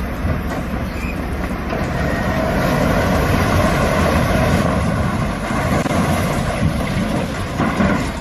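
Loud, steady rumble and clatter of heavy machinery, starting abruptly.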